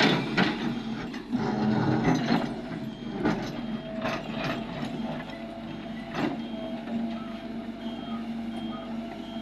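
Excavator loading quarry waste into a tipper truck: a steady engine hum with several loud clunks of rock striking the truck bed, the loudest right at the start. A reversing alarm beeps about twice a second from about halfway on.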